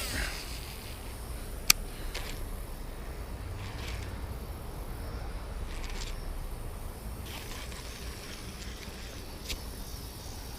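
Insects chirring in a steady chorus, with a sharp click about two seconds in and a fainter one near the end.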